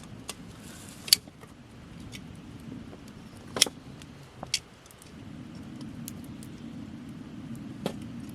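Wood campfire of burning branches crackling: a handful of sharp pops over a low, steady rushing noise that grows a little louder about halfway through.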